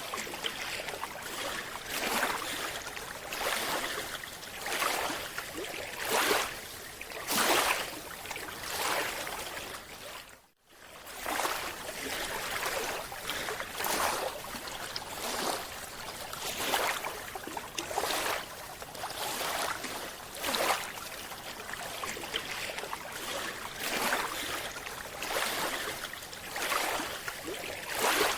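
Rushing water noise that swells and fades in repeated surges, about one every second or so, with a brief total cutout about ten seconds in.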